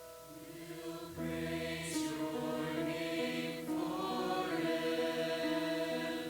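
Choir singing a slow worship song in sustained chords over held instrumental notes; the voices swell in about a second in.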